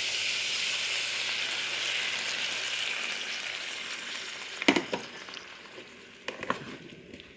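A pan of pumpkin and beans sizzling as vegetable broth is added, the sizzle fading away over the second half. There is a sharp clink about two-thirds of the way in and a couple of fainter knocks near the end.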